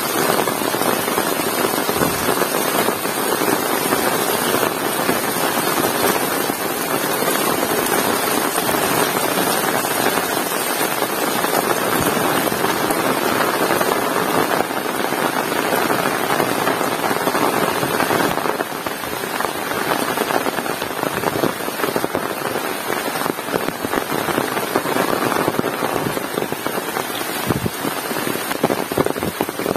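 Heavy rain falling steadily, a dense patter of drops hitting surfaces, easing slightly about two-thirds of the way through.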